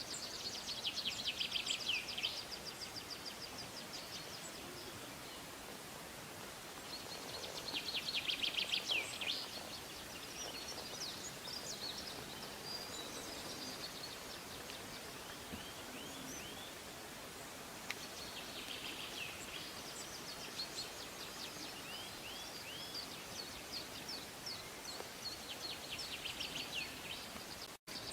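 Songbirds singing outdoors: a rapid trilled phrase about two seconds long comes four times, with scattered chirps and short sweeping notes in between, over a steady background hiss. The sound drops out briefly near the end.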